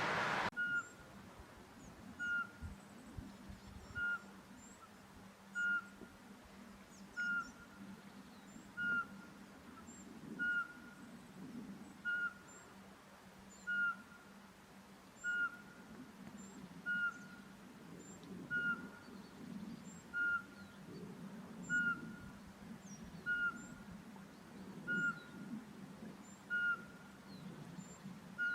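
Eurasian pygmy owl singing: a long, monotonous series of short, clear whistled notes, one about every one and a half seconds.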